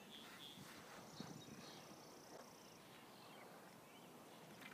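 Near silence: faint outdoor ambience with a few small distant bird chirps and a short, fast high trill about a second in.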